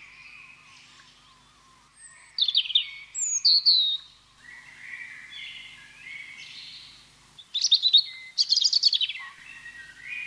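Birdsong: a background of steady chirping, with a louder bird breaking in twice with bursts of quick, high trilling calls, about two and a half seconds in and again near eight seconds.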